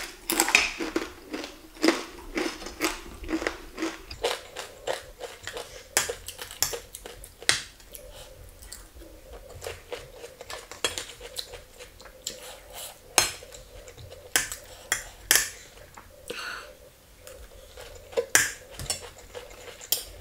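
A person chewing crunchy chips with the mouth close to the microphone: a steady run of sharp, crisp crunches, with a few clinks of a metal fork and spoon on a plate.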